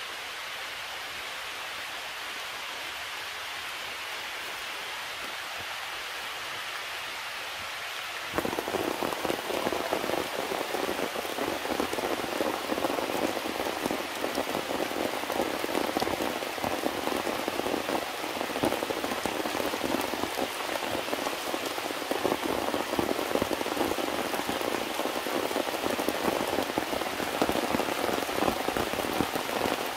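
Steady soft hiss for the first eight seconds, then heavy rain abruptly comes in: dense pattering of many close drops on the surroundings, steady and loud.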